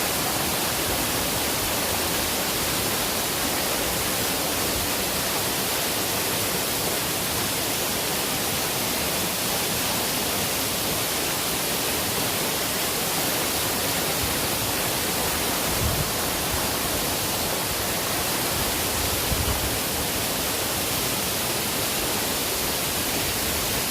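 Steady rush of a waterfall about 20 metres high falling into its plunge pool, heard close up. Faint low bumps come about two-thirds of the way through.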